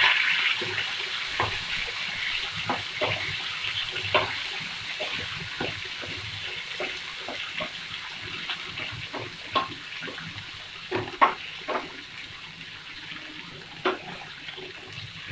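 Onions, cashews, fresh tomato and green chillies sizzling in oil in a nonstick frying pan, a steady hiss that fades gradually, while a wooden spatula stirs them with irregular light knocks and scrapes against the pan, a few louder knocks near the end.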